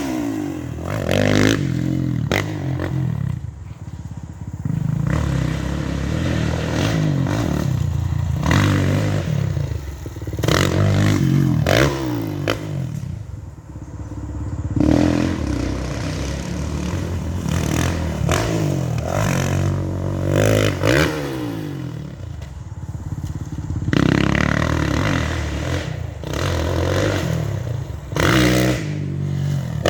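Dirt bike engine revving up and easing off again and again as it rides a motocross track, with frequent rattling and scraping knocks.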